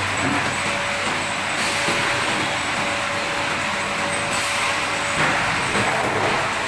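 Automatic water-gallon filling machine running: a steady mechanical noise with a faint steady whine.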